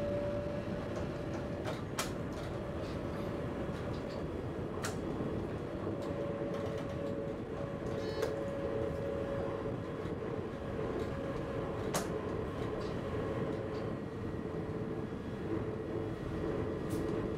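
Passenger train running on the line, heard from the driver's cab: a steady rumble with a continuous whine that drifts a little in pitch, and a few sharp clicks scattered through.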